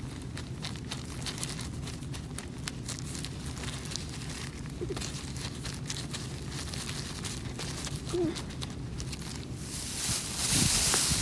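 A campfire crackling with scattered small pops over a steady low rumble of wind on the microphone. A louder hiss swells near the end.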